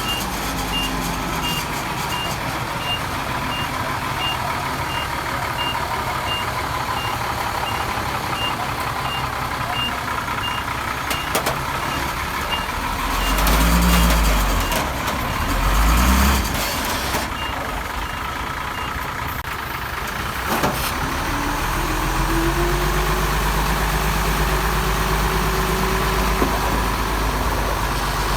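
A heavy machine's reversing alarm beeps steadily, about two beeps a second, over diesel earthmoving engines. Midway, the engines surge loudly twice. The beeping stops about two-thirds of the way through, and then an engine revs up and holds at a higher pitch.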